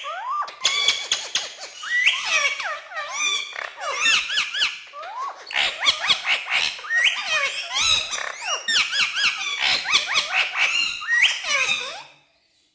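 Pet parrot chattering and whistling in a quick, unbroken run of rising and falling whistles, chirps and clicks. It stops abruptly near the end.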